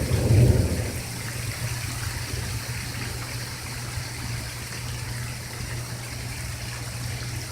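Steady rain falling, with the tail of a low rumble of thunder dying away in the first second.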